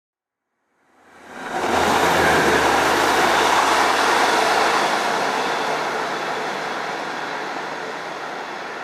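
Diesel train passing close by: its engine and wheel noise come in suddenly after silence, are loudest for a few seconds, then slowly fade as it moves away.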